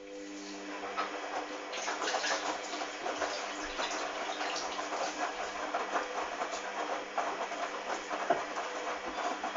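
Hoover DYN 8144 D washing machine taking in water. A steady hum starts at the outset, and the sound of rushing, splashing water builds over the first two seconds and then runs on evenly.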